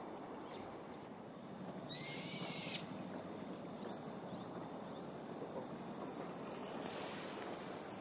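A bird gives one drawn-out, slightly wavering whistled call about two seconds in, over a steady hiss, with a sharp click near four seconds and faint short high chirps after it.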